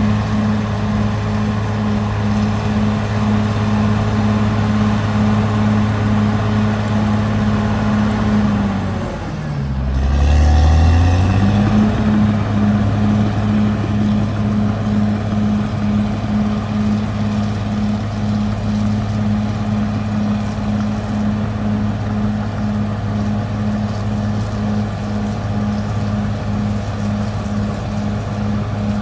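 Caterpillar D6R XL bulldozer's diesel engine running steadily under work. About nine seconds in the engine note drops briefly, then climbs back up and gets louder before settling again.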